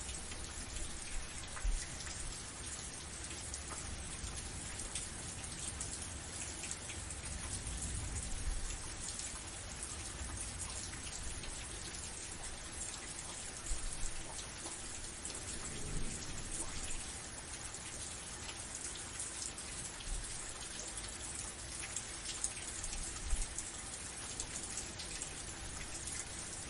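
Steady rain falling, with many individual drops ticking close by and a few louder drops now and then, over a low rumble.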